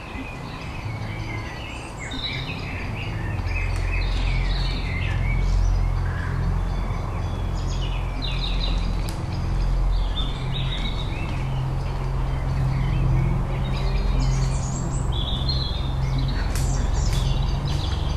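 Birdsong: many short chirps and calls from several small birds, over a low steady hum that swells over the first few seconds and then holds.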